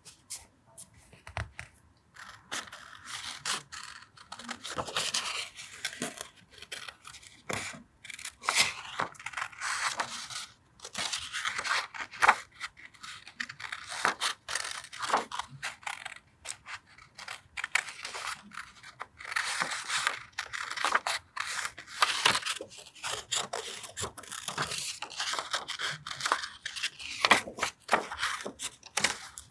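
Paper being torn and cut with scissors for a collage, in scratchy stretches broken by short taps and rustles of paper handling.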